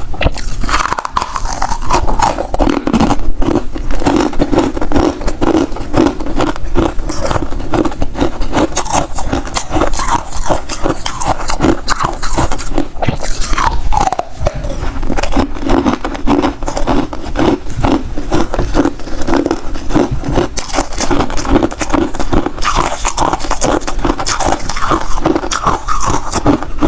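Hard freezer ice being bitten and chewed close to the microphone: a continuous run of rapid, irregular crunches and scraping cracks.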